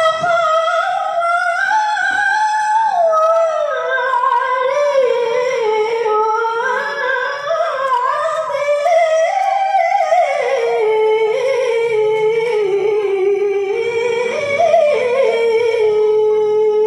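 A woman's voice reciting the Quran in the melodic tilawah style: one long, unbroken ornamented phrase that winds up and down in pitch, settling on a long held note over the last few seconds.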